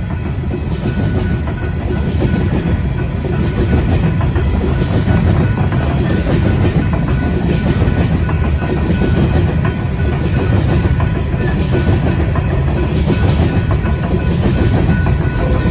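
A BNSF coal train rolling past a grade crossing at a steady speed: a loud, continuous rumble of steel wheels on rail, with a faint rhythmic clickety-clack.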